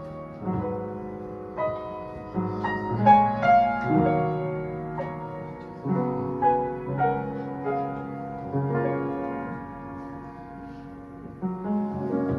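Piano music: a slow melody played over sustained chords, with the notes changing about every half second.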